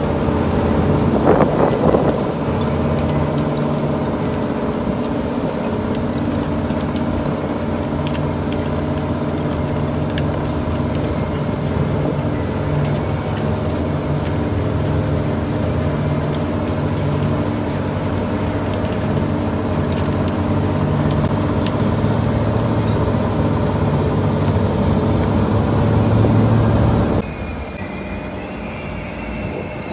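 Heavy mining machinery running with a steady, loud droning hum. About 27 seconds in, it cuts abruptly to a quieter machine sound with a thin high-pitched squeal.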